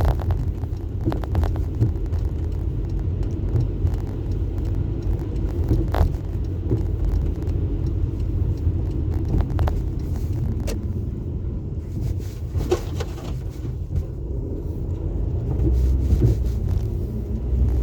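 Steady low rumble of a car's engine and tyres heard from inside the cabin while driving on a snowy road, with a few brief clicks.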